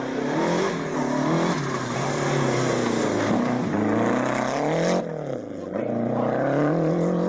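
Rally car engine revving hard as the car goes by at speed. The note climbs and drops back with each gear change, eases off briefly about five seconds in, then pulls up again.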